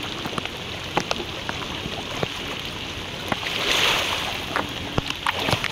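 Heavy rain falling on floodwater, with the flood sloshing and rushing and many sharp raindrop taps close by. The water rush swells for about a second from roughly three and a half seconds in.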